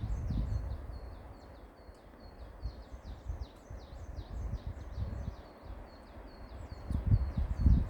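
Small birds chirping continuously in quick, repeated high notes, with wind gusting against the microphone. The wind is strongest at the start and swells again near the end.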